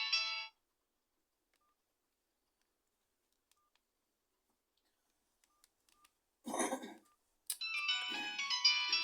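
A mobile phone's polyphonic ringtone melody of quick high notes stops about half a second in and falls silent. About six and a half seconds in comes a brief noisy sound, then a click, and the ringtone starts again.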